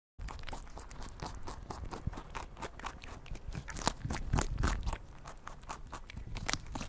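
Plastic toy animal figures being handled: a dense, irregular run of clicks and crackles, busiest a little past the middle.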